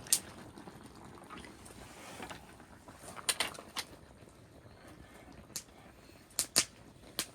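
A handful of sharp, separate clicks and clinks, about eight in all and bunched between three and seven seconds in, over a faint steady background.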